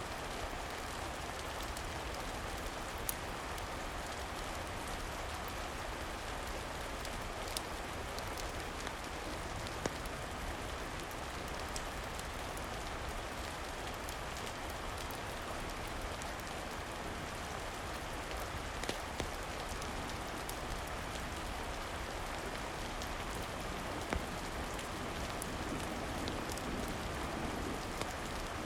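Steady rain falling, with occasional sharp clicks scattered through it.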